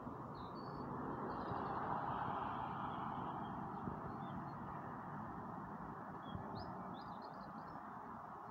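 A few short, faint bird chirps: a couple about half a second in and a cluster of three or four near the end. Under them runs a steady rushing background that swells about a second in and eases off by three seconds.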